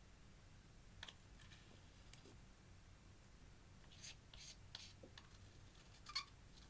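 Faint sticky clicks and small pops of clear slime being worked by hand, scattered irregularly, with the sharpest pop a little after six seconds in.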